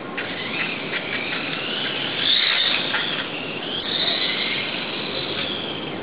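Brushless electric motor of a Kyosho radio-controlled motorcycle whining, its pitch rising and falling several times as the throttle changes, over a steady hiss.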